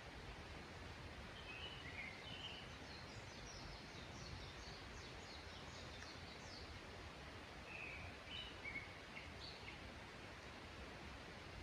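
Songbirds calling in a quiet mountain forest over a faint, steady background hiss. There are a few short chirps in the first seconds, then a rapid run of high, quick notes lasting several seconds, then more scattered chirps.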